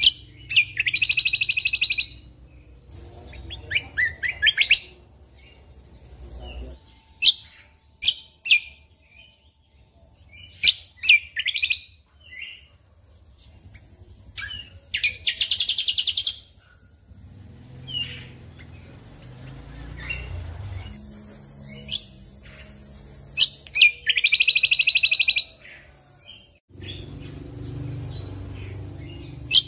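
Cucak kombo (kecial kombok) singing. Sharp, scattered high calls are broken by rapid trills of about one and a half seconds each: the first near the start, then about 4 s in, about 15 s in and about 24 s in. A low hum runs underneath.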